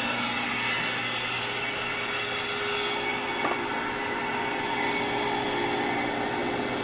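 Harvest Right freeze dryer's machinery running with a steady hum. Over it is a hiss of air rushing in through the just-opened drain valve, which slowly fades as the chamber's vacuum is released.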